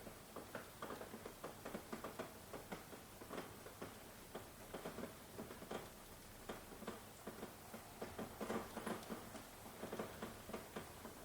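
Rain falling, with large drops tapping irregularly several times a second over a soft steady hiss; the taps come a little thicker about eight seconds in.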